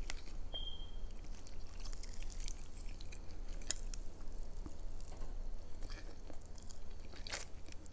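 A person eating chicken from a fork and chewing close to the microphone, with soft mouth sounds and a few faint clicks.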